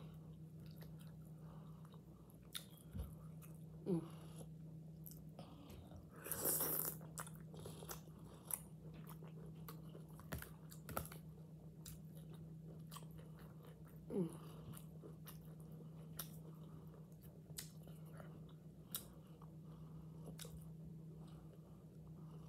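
Close-miked chewing and biting of soft, sauced marinated vegetables, with small wet mouth clicks throughout over a steady low hum. A brief louder rush of noise comes about six and a half seconds in.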